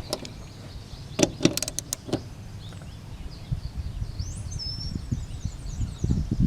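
Sharp metallic clicks and knocks from tools and parts being handled while a throttle control is bolted onto a riding tractor, a quick cluster of them about a second in, then low thumps and handling noise near the end.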